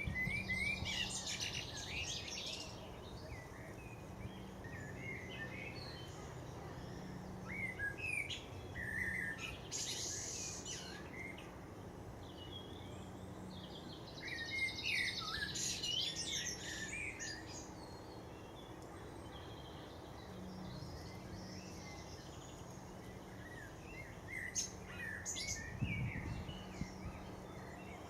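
Small garden birds calling and singing in several bursts of quick chirps and trills, over a low steady hum.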